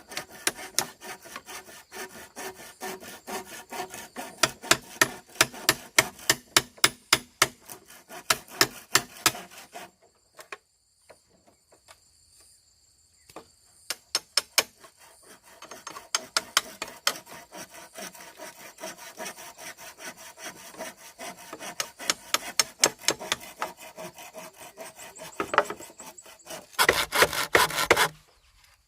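Hand tool cutting and scraping wood or bamboo in quick repeated strokes. There is a pause of about three seconds near the middle, and a denser, louder rasping burst near the end.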